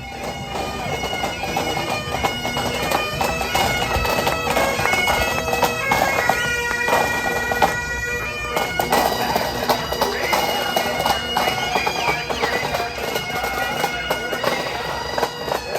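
Bagpipes playing a tune, the melody stepping between held notes over a steady drone.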